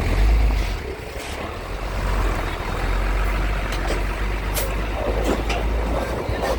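Heavy diesel engine rumbling steadily at a ferry dock, with a few sharp knocks and clanks about four to six seconds in.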